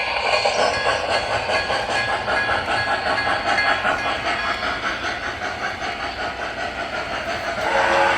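MTH O-scale Pennsylvania Railroad K4s model steam locomotive's sound system playing steady, quickly repeating steam chuffing as the train runs, with a hiss over it. A pitched whistle-like tone comes in near the end.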